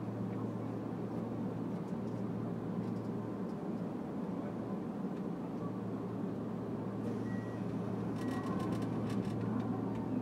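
Kintetsu 3220-series electric train: a steady low hum over a broad rumble, with a quick run of light clicks about eight to nine seconds in.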